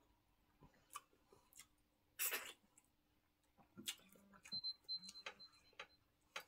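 Quiet mouth sounds of eating: scattered lip smacks and chewing clicks, a short breath about two seconds in, and a couple of brief low hums.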